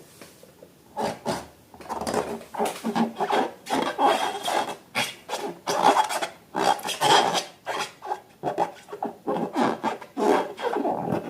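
Glossy slime being worked and mixed, making a quick, irregular run of rubbing, squelching strokes that starts about a second in.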